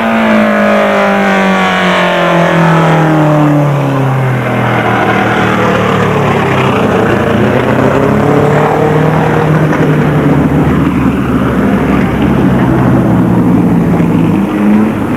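Rally hatchbacks' engines running hard as the cars climb past one after another. The engine note falls over the first few seconds and rises again near the end.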